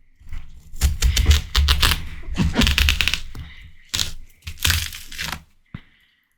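Close-miked biting and chewing of ripe watermelon: wet, crisp crunching in a long run of crackles, then two shorter crunches.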